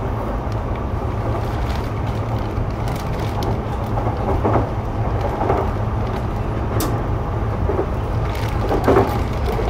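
Interior running sound of a Sotetsu 12000 series electric commuter train, heard from inside a motor car: a steady low rumble of wheels on rail as the train runs along.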